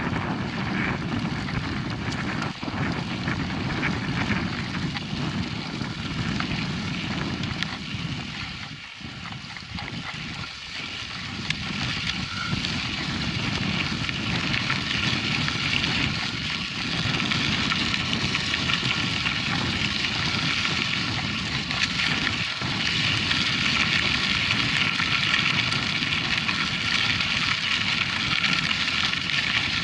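Mountain bike being ridden over a dirt track: a steady rumble of tyres on the ground and wind buffeting the microphone, easing off briefly about a third of the way in.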